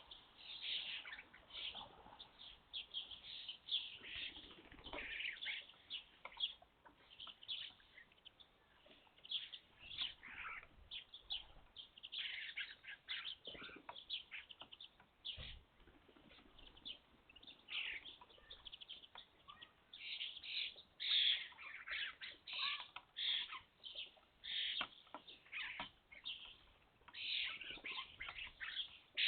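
A flock of young European starlings calling at a garden feeder: many short calls overlapping in a continuous chatter, growing busier and louder in the last third.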